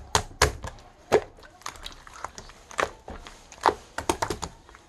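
A run of sharp, irregular clicks and knocks, about a dozen, the loudest about a second in.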